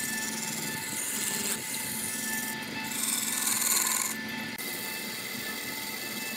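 A wood lathe spins a wooden vase blank while a turning gouge cuts it, making a hissing scrape as shavings come off. The scrape is strongest in the middle and eases about four and a half seconds in, over a steady hum from the lathe.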